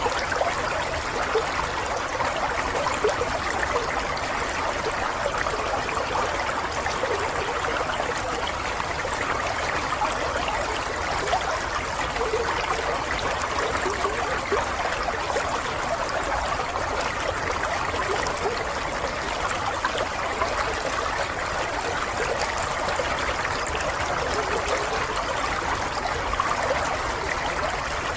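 Water running and trickling steadily over stones in a small stream, with a continuous babble of small splashes and gurgles.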